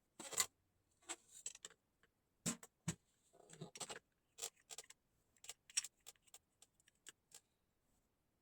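Light clicks and knocks from drum hardware being handled, about fifteen of them at irregular spacing, a few with a dull thud.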